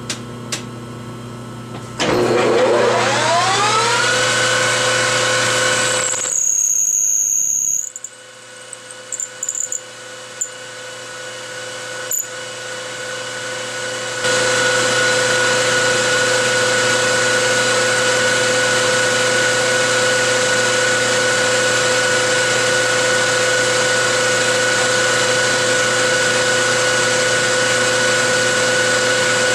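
Metalworking lathe spindle spinning up to high speed: a rising whine that levels off about two seconds in. After a short drop a few seconds later, the sound builds gradually and jumps back to a loud, steady whine.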